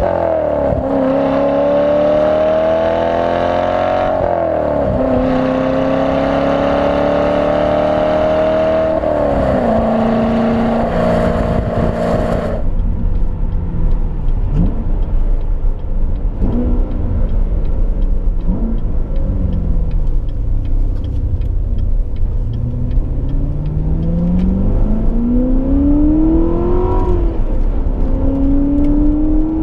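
2016 Chevrolet Corvette Stingray Z51's 6.2-litre LT1 V8 with its multi-mode exhaust, accelerating hard through the gears: the engine note climbs and drops sharply at each upshift, three times in the first ten seconds. Partway through, the sound turns duller, with a heavy low road rumble, and the engine climbs again and shifts once more near the end.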